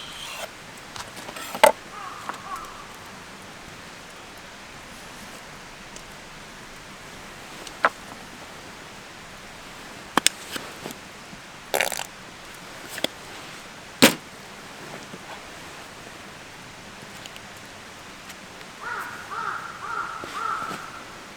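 Food being handled with cooking utensils over a steady outdoor hiss: a handful of separate sharp clicks and knocks, then a short spluttering, squeaky sound near the end.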